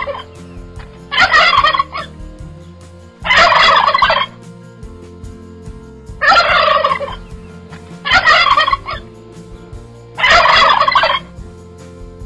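Domestic fowl calling in a run of loud calls, each just under a second long, repeated about every two seconds.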